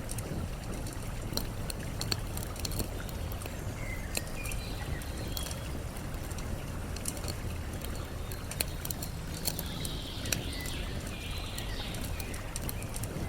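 Campfire crackling with frequent sharp pops over a steady rush of flowing water. Short bird chirps come through about four seconds in and again in the second half.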